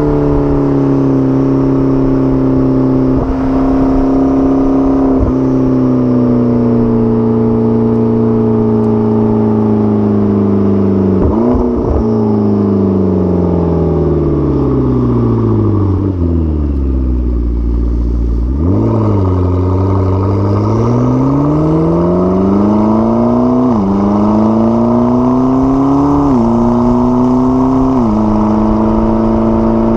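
McLaren 12C's twin-turbo V8 and exhaust on the move. The engine note falls steadily for about ten seconds as the car slows, bottoms out in a low rumble, then climbs again as it accelerates, with a few quick steps in pitch near the end from gear changes.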